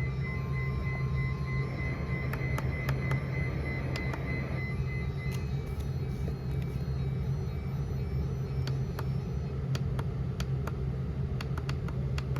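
Weather radio receiver's steady hum and static hiss between messages, with a faint broken high tone for the first five seconds, a short lower tone near the start, and scattered crackles in the second half.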